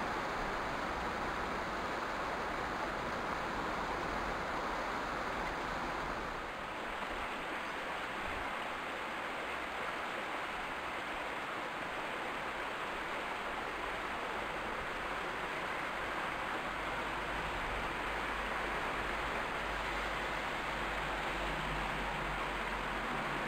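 Steady rushing noise with no distinct bird calls, changing slightly about six seconds in.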